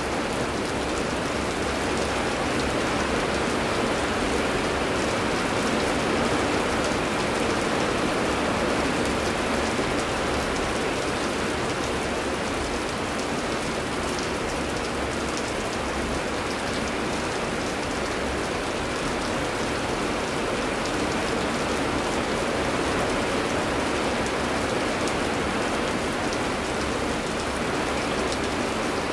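Steady heavy rain pouring, a dense even hiss with the patter of individual drops on surfaces.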